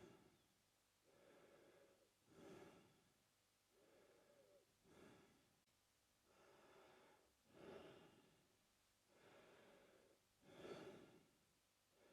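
Faint, slow mouth breathing by a man: about five steady in-and-out breaths, one roughly every two and a half seconds. In each breath one half is a longer, softer rush of air and the other is shorter and louder.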